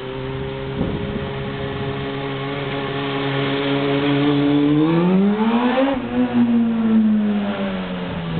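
Kawasaki ZX-6R 636 inline-four running through a Muzzy aftermarket exhaust, holding steady revs, then rising sharply in pitch about five seconds in and easing back down over the next couple of seconds.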